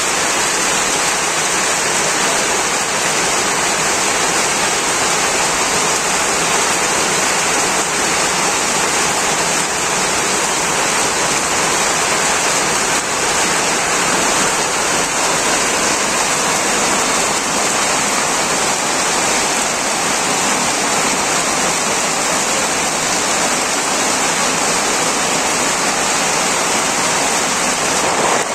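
Heavy rainy-season downpour: a steady, dense hiss of rain falling on corrugated tin roofs and walls and into a waterlogged yard.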